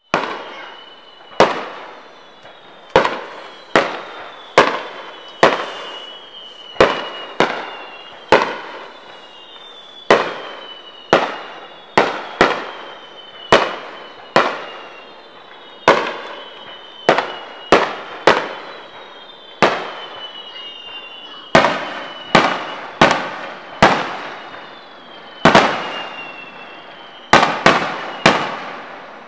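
Aerial fireworks shells bursting in a steady barrage, roughly one sharp bang a second with a quick cluster near the end, each echoing away. High whistling tones that fall in pitch run between the bangs.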